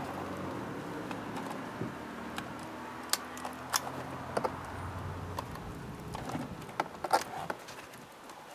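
Plastic electrical connectors of a car door panel's wiring being handled and pushed together: light rattling with a few sharp clicks as they snap in, several near the middle and a cluster about seven seconds in.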